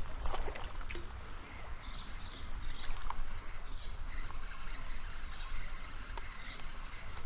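Trout stream water running and splashing, with small ticks and knocks from handling while a small brook trout is played in. A few short high chirps come about two to three seconds in.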